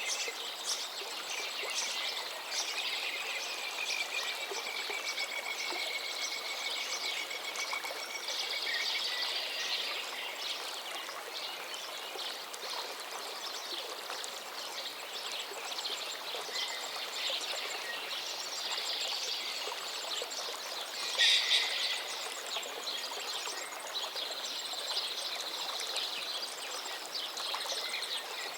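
Birds chirping and singing over a steady rush of running water, with one louder call about two-thirds of the way through.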